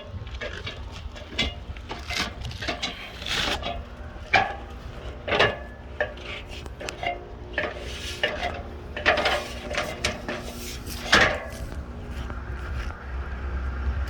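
Irregular clicks, scrapes and knocks of handling, with a few sharper knocks, over a steady low rumble.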